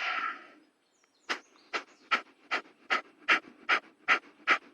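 A person doing kapalabhati yoga breathing. One longer breath comes first, then about a second in a steady run of short, forceful exhales starts, about two and a half a second, with the inhales coming passively between them.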